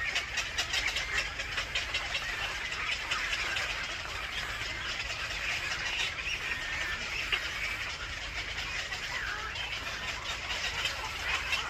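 Birds chirping and chattering, a dense run of quick short notes that keeps on without a break.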